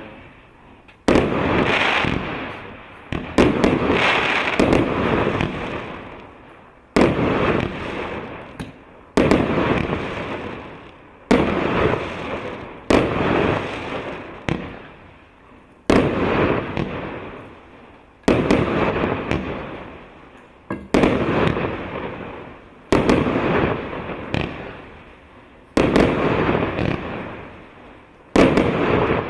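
Consumer firework cake of 1.25-inch shots firing: a sharp launch-and-burst about every one and a half to two seconds, each followed by a decaying crackle and echo.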